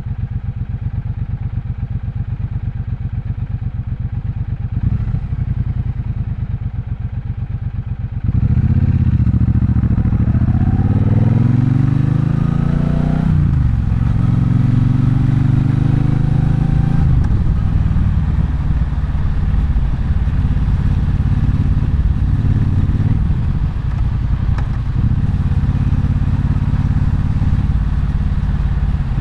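Triumph Bonneville Bobber's 1200 cc parallel-twin engine running steadily at low revs, then opening up sharply about eight seconds in. The revs climb for a few seconds, drop at a gear change, and then settle into steady running under way.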